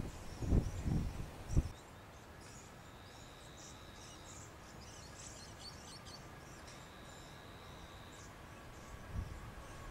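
Outdoor ambience with small birds chirping in short high calls and a steady high insect-like trill that comes and goes. There are three low thumps in the first two seconds.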